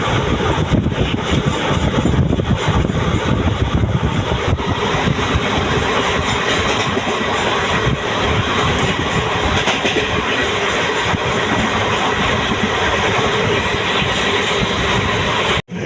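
Steady running noise of a moving passenger train, wheels rolling on the rails with faint clicks over the rail joints. It breaks off abruptly just before the end.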